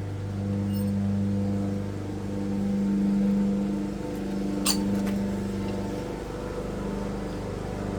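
Lawn mower engine running steadily, its hum swelling and easing every second or two as it works the grass. One sharp click about halfway through.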